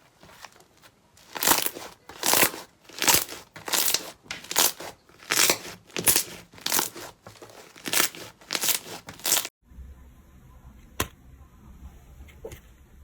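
Slime being pressed and squeezed over and over, about a dozen crackling squishes roughly one every 0.7 seconds. They stop suddenly near the end, leaving a quiet low hum and a couple of faint clicks.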